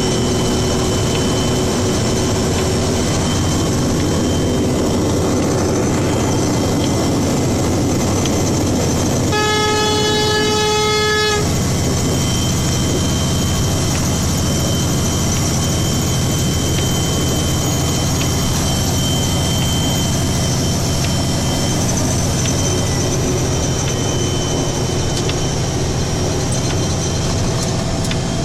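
Plow truck's engine and road noise running steadily, heard from inside the cab. About nine seconds in, the truck's horn sounds once, a steady toot of about two seconds given as a greeting while passing someone.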